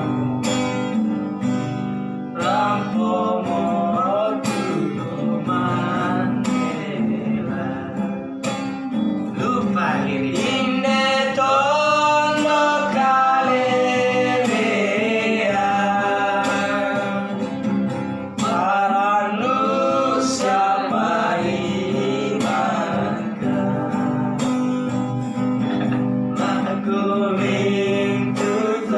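Singing with acoustic guitar accompaniment: a wavering sung melody over strummed or plucked chords.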